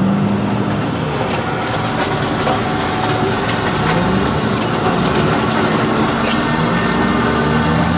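Heavy diesel yard machinery running at work, its engine rising in pitch and holding several times as the hydraulics take the load, over a steady clattering rumble.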